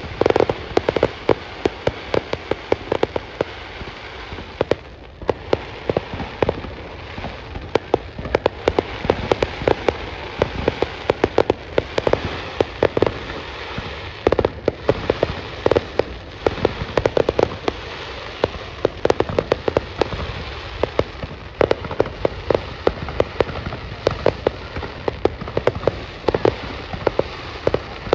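Fireworks going off without a break: a dense run of sharp pops and bangs, several a second, over a steady crackling hiss.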